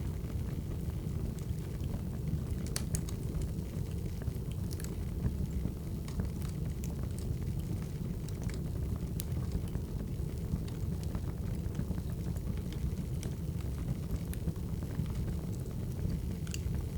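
Crackling wood fire: scattered, irregular sharp pops and snaps over a steady low rumble.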